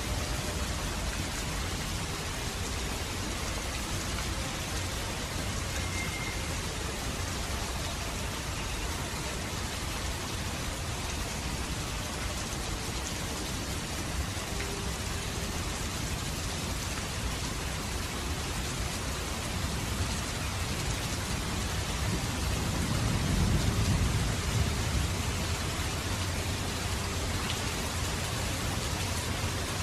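Steady rain falling, with a low roll of thunder swelling about three quarters of the way through.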